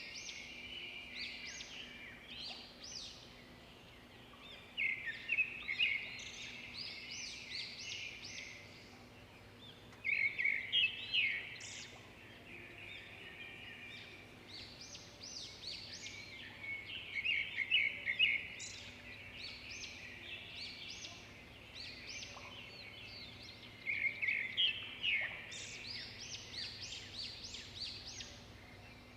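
Songbirds chirping and singing, a busy mix of rapid high chirps, with louder song phrases coming in bursts every six or seven seconds.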